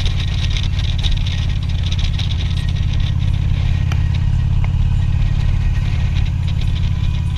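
Harley-Davidson Street Glide's V-twin engine running steadily, with a steady hiss over it.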